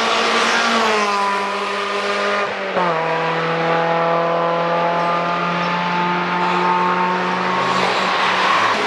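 A car at speed on a race track, its engine note dropping sharply near the start and again about three seconds in, then holding nearly steady, with a rush of tyre and wind noise near the end.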